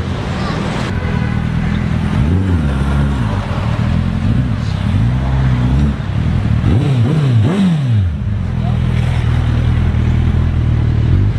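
Suzuki Hayabusa's inline-four engine running through an Akrapovic exhaust while riding. It holds a steady note, with the revs rising and falling a few times, twice in quick succession about two-thirds of the way in.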